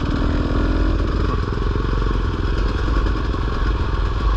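Dirt bike engine running steadily under throttle as the bike is ridden.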